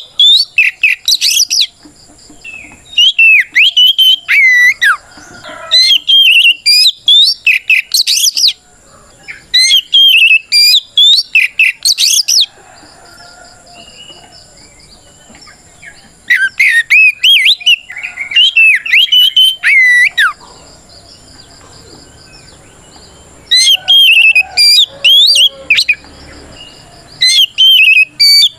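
Oriental magpie-robin (kacer) singing loudly in its open-throated 'ngeplong' challenge song, used to provoke rival males. Its loud phrases of sharp, fast-gliding whistles come in bursts of a few seconds, with two longer pauses: one a little before the middle and one about three quarters of the way through.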